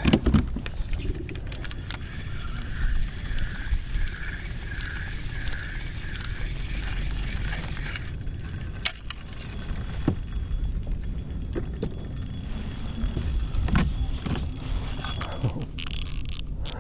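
Fishing reel being worked while fighting a hooked gafftopsail catfish: a wavering whir for several seconds and scattered clicks, over a low rumble of wind on the microphone.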